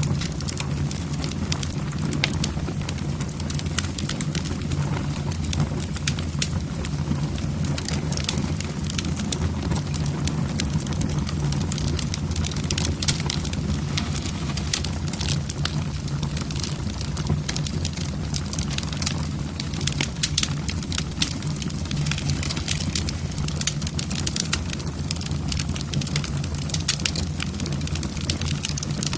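Logs burning in a fireplace, crackling with frequent sharp pops and snaps over a steady low rumble.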